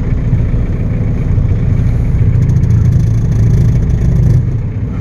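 Cold Ford Ranger diesel engine running as the truck pulls away in gear, rising a little in speed and loudness about two seconds in and easing back near the end.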